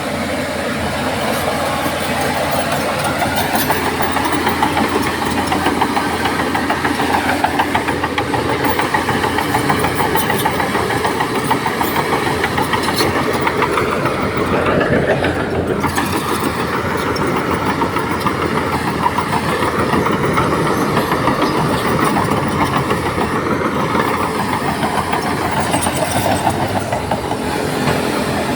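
Bulldozer diesel engine working steadily, its pitch rising and falling a few times as the load changes.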